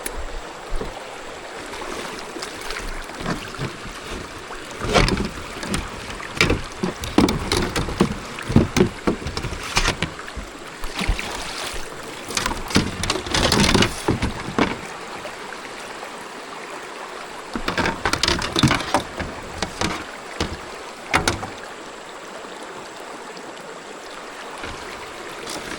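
Steady rush of creek water, with irregular knocks, thumps and rustles of handling on a kayak. The knocks come in a long flurry a few seconds in, then two shorter flurries later.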